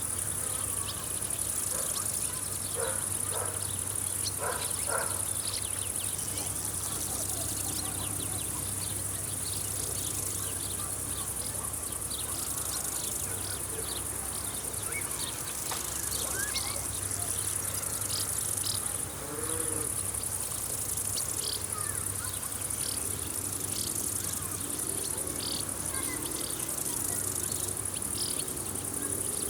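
Summer field insects keep up a steady, high-pitched chorus. Birds give short, scattered chirps over it, with a few lower calls in the first few seconds.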